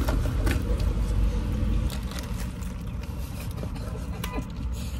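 Low steady rumble of a car's running engine heard inside the cabin, with a few faint clicks near the start.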